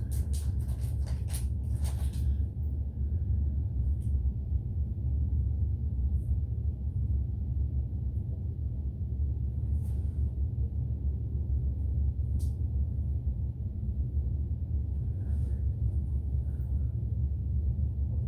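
A steady low rumble throughout, with a quick series of light clicks and taps in the first two seconds and a few faint ticks later on.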